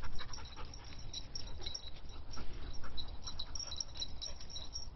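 Dogs moving about close by: faint scuffling with many small scattered clicks, over a low steady rumble.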